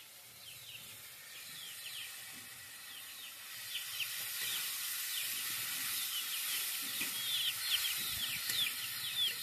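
Food sizzling in hot oil in a metal wok as it is stirred, with tomato slices just added; the sizzle grows louder from about three seconds in. Small birds chirp repeatedly throughout.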